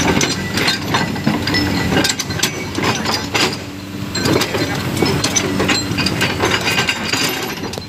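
Construction machine's diesel engine running steadily, with many short sharp knocks and clinks scattered through it.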